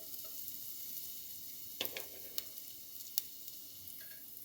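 Minced garlic sizzling in hot olive oil in a pot, a steady hiss with a few sharp pops and spits.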